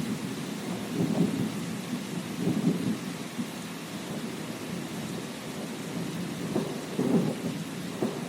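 Thunderstorm: steady rain with rumbling thunder that swells up several times, about a second in, around two and a half seconds, and again near the end.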